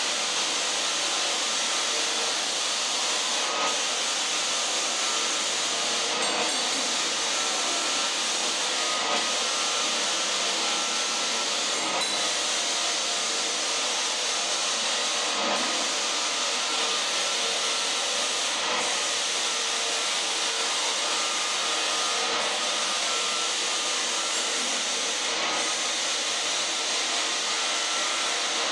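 Floor sanding machine running steadily over a waxed wood floor, with brief dips in the sound every three seconds or so.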